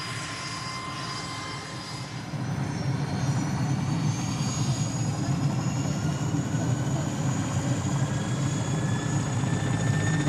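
Mi-8 helicopter's twin turboshaft engines and rotor running up for takeoff. A steady low drone steps up in loudness about two seconds in, under high turbine whines that slowly rise in pitch.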